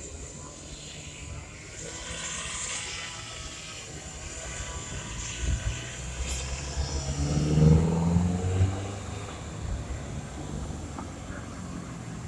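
Street traffic: a steady rumble of motor vehicles, with one engine passing close and loudest about eight seconds in.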